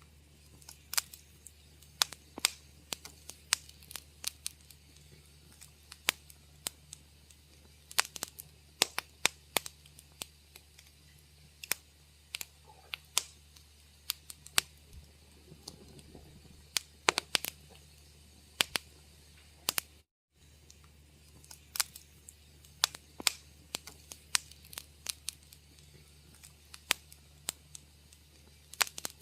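Wood fire crackling: irregular sharp pops and snaps, some in quick clusters, over a steady low hum. The sound cuts out for a split second about twenty seconds in.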